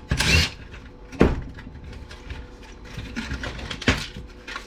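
Power drill-driver whirring briefly as it backs out a screw, followed by scattered clicks and knocks of small metal parts being handled.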